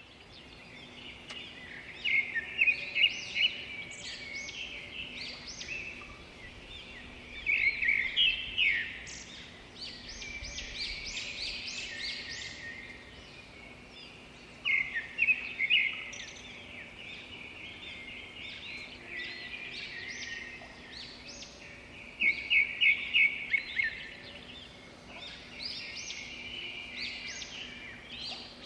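Birds chirping and singing, with loud rapid trilled phrases that return about every seven seconds between quieter scattered chirps.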